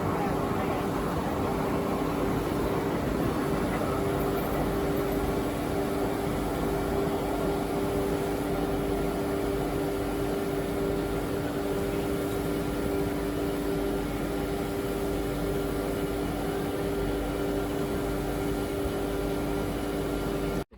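Freight train running past: a steady rumble of wheels and wagons with a steady hum over it, cutting off suddenly at the end.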